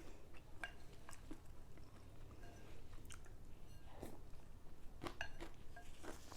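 A person chewing and making soft mouth noises while eating mohinga, Burmese rice-noodle fish soup, with scattered small clicks.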